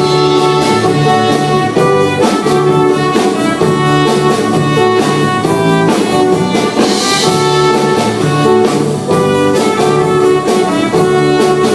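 Music: a live band playing an instrumental passage between choruses, with drums, a repeating bass line and a held melody line.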